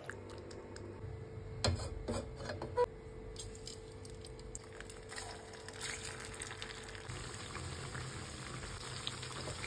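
Battered cauliflower frying in hot oil in an aluminium kadai, a soft steady sizzle. A few sharp clicks come about two seconds in.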